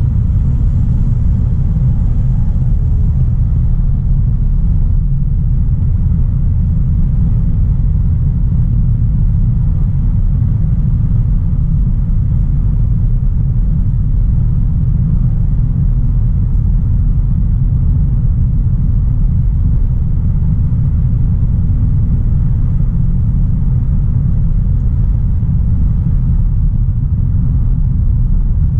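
2016 Audi A3 Sportback 1.4 TFSI (turbocharged four-cylinder petrol) driving along, a steady low rumble of engine and road noise with no changes in pace.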